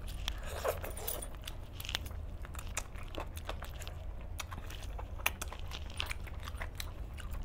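Close-up eating sounds: a cooked chicken leg being torn apart by hand, bitten and chewed, with many small wet clicks and smacks scattered throughout, over a steady low hum.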